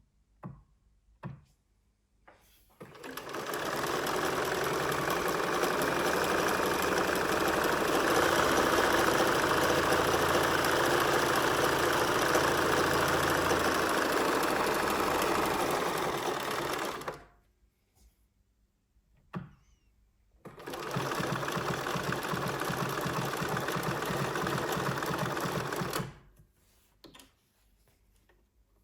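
Bernina 1230 sewing machine running at speed in two runs, the first about fourteen seconds long and the second about five and a half, with a few short clicks before, between and after them.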